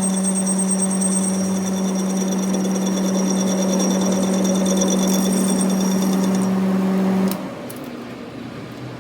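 A workshop machine running with a steady loud hum and a high whine, which stops abruptly about seven seconds in, leaving a quieter background.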